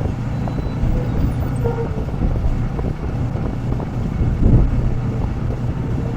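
Motorcycle cruising at a steady, moderate speed of about 52 km/h: steady engine drone mixed with wind and road noise, with a brief louder surge about four and a half seconds in.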